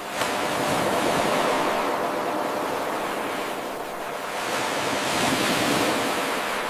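Ocean waves washing ashore in a seamless eight-second loop: the sound jumps up suddenly just after the start as the loop restarts, then eases and swells again once more before fading.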